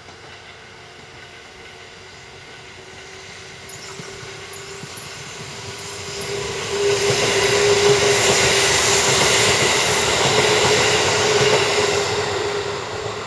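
Sanyo Electric Railway electric train passing close by. The sound builds from about four seconds in, is loudest from about seven to twelve seconds with a steady tone running through it, then begins to fade near the end.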